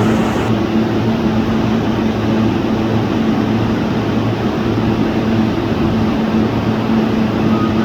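Electric commuter train at the station, its equipment giving a steady low hum over a constant rumble, with no change in pitch.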